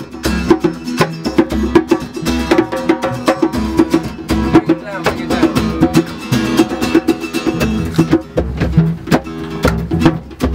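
Live acoustic music without singing: acoustic guitar strummed in a quick, even rhythm, with sharp percussive attacks on the beat.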